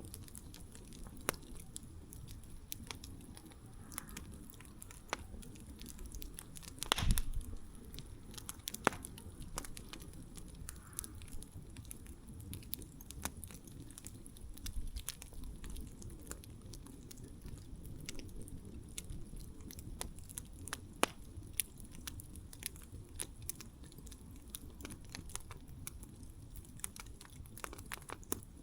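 Wood campfire crackling: irregular sharp snaps and pops over a low, steady rush of flame, with one louder pop about seven seconds in.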